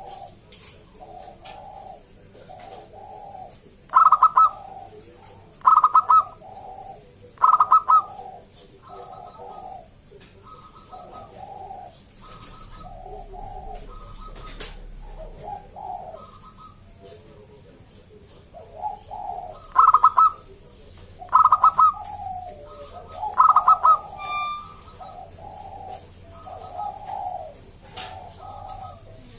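Zebra doves (perkutut) cooing: a steady run of short, repeated coo notes, broken twice by a group of three much louder, higher coos.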